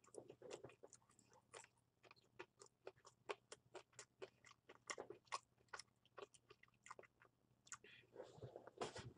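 Faint chewing of a KFC meal: a quick, uneven run of small crisp crunches and clicks of food between the teeth.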